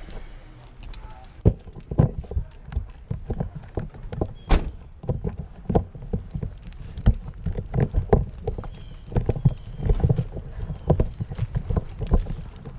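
A run of irregular knocks and clunks, at times several a second, with a few sharper hits among them.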